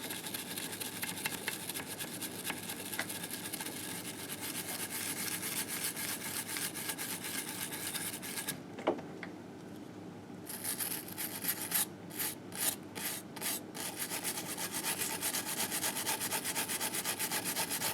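Brush scrubbing grime off the engine case of a 1958 Harley-Davidson Sportster in fast back-and-forth strokes. The scrubbing stops for about two seconds near the middle, comes back as five or six separate strokes, then goes on steadily.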